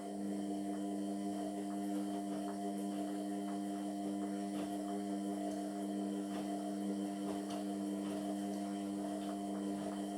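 Indesit MyTime washing machine's motor turning the drum during the wash cycle: a steady hum, with faint scattered ticks from the tumbling load of towels.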